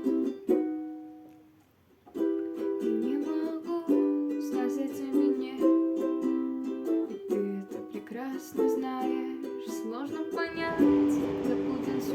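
Ukulele played by plucking a melody with chords; the notes ring out and die away about a second in, then the playing picks up again. A steady hiss comes in under it near the end.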